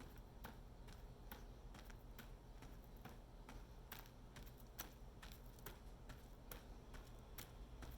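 Faint footsteps at a steady walking pace, about two steps a second.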